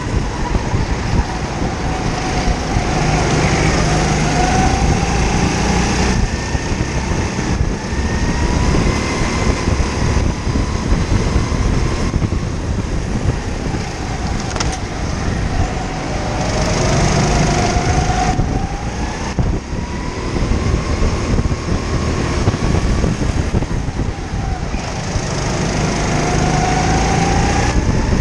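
Go-kart engine heard onboard at close range, repeatedly revving up and then dropping back, over the steady rumble of the kart running on the track.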